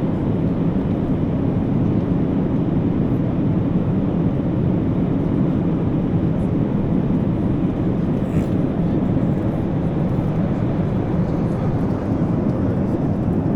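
Steady low cabin noise inside a taxiing Boeing 737 MAX 8 after landing: its CFM LEAP-1B engines at low taxi power together with the air-conditioning flow, an even drone with no change in pitch.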